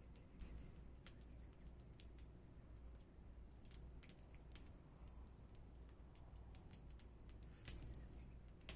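Faint crackling of a small burning wood fire: sparse, irregular pops and ticks over a low steady hum, with a sharper pop near the end.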